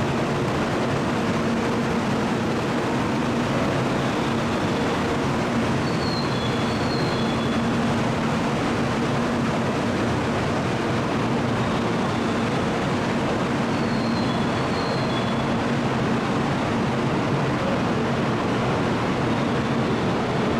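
Kyushu Shinkansen train running, a steady, unbroken rumble with a constant low hum; faint high double chirps come twice.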